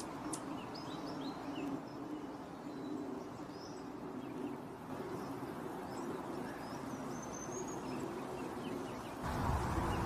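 Small bird chirps: short, high calls scattered throughout, with one thin whistled note that rises and falls about seven seconds in, over a steady low background hum. A louder low rushing noise comes in near the end.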